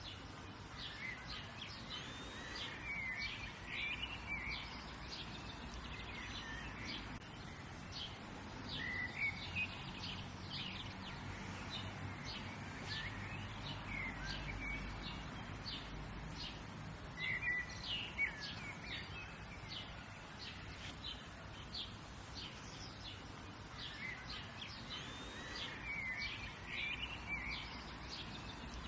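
Several birds chirping and singing over a steady outdoor background hiss, with many short calls and twittering phrases throughout and a faint low rumble in the middle.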